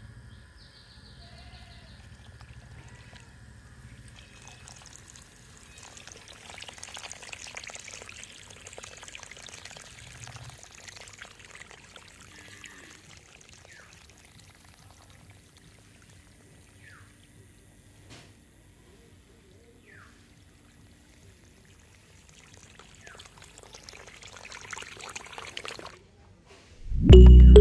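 Water pouring and trickling from a small homemade motor-driven water pump, rising and falling in strength. Loud music cuts in near the very end.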